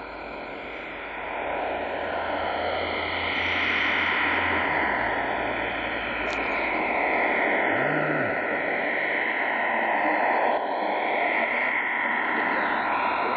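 Shortwave radio receiver tuned to 9625 kHz putting out a strange, dense rushing noise with slowly wavering bands of pitch, growing louder over the first two seconds. A low hum underneath fades out about five seconds in.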